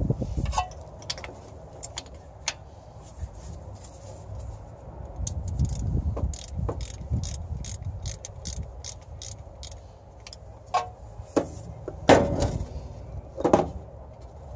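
Clicks and clanks of hand tools and metal parts being handled on a truck, with a run of quick, evenly spaced clicks in the middle and a few louder clanks near the end, over a low wind rumble on the microphone.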